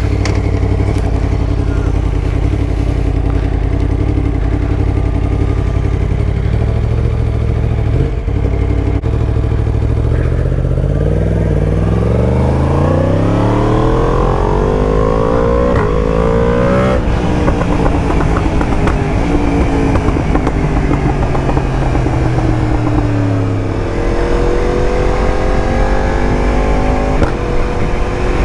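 Yamaha MT-10's crossplane inline-four engine through an Akrapovic exhaust, the bike being ridden. It runs at steady low revs for about ten seconds, then the revs climb for several seconds, drop back sharply and fall away, and it settles to a steady pitch near the end.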